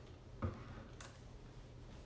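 A single dull thump about half a second in, then a short sharp click about a second in, over a low steady hum.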